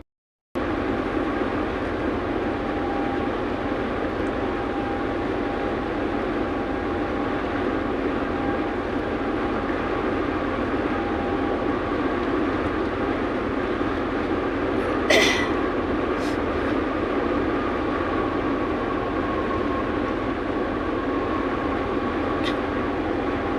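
Steady cab noise of a semi-truck on the move: engine and tyre rumble with road noise, starting suddenly after a moment of silence. A sharp click sounds once about fifteen seconds in.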